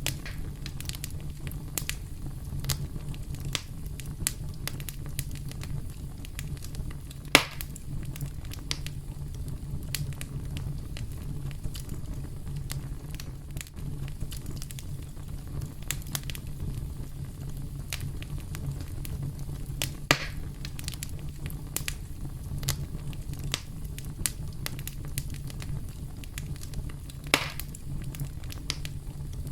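Wood fire crackling: continual small snaps and ticks over a steady low rumble, with three louder pops, about 7, 20 and 27 seconds in.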